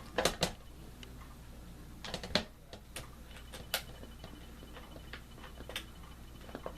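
Scattered clicks and light knocks of box-fan parts and screws being handled during reassembly, with a small cluster just after the start and another about two seconds in.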